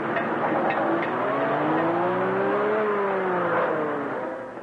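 A car engine accelerating as the car drives off past the barrier. Its pitch climbs for nearly three seconds, then drops and fades near the end.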